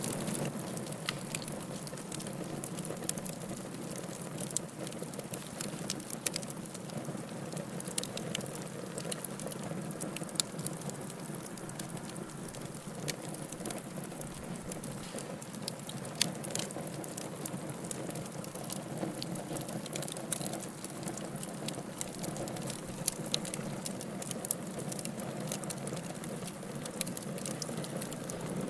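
Fire crackling in a fireplace: a steady low hiss with sharp pops and snaps at irregular intervals, a few of them louder than the rest.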